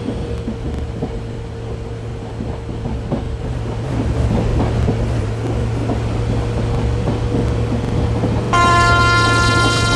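A train running with a steady low rumble that grows louder about four seconds in. Near the end its horn starts: one long, loud, steady blast that carries on past the end.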